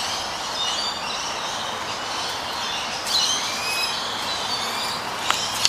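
Small birds chirping, many short high calls overlapping, over steady background noise; a couple of sharp clicks near the end.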